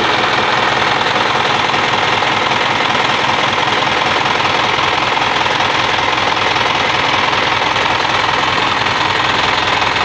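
Isuzu 4HF1 four-cylinder diesel engine running steadily, heard from beneath the truck beside the starter. It was started by jumping the starter solenoid directly, bypassing the ignition switch, which shows the starter and battery are sound and puts the no-start fault in the wiring to the ignition switch.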